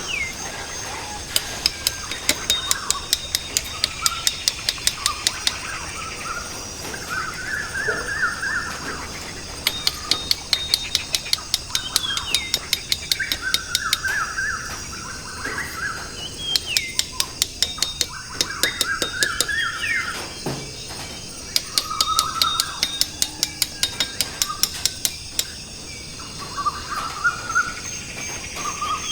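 Birds chirping and warbling, with short falling whistles, and runs of rapid high ticking recurring every few seconds.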